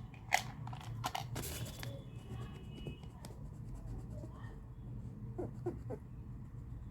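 Colouring tool scratching in short strokes on paper as the ears of a paper cat are coloured yellow, with a few light clicks in the first two seconds.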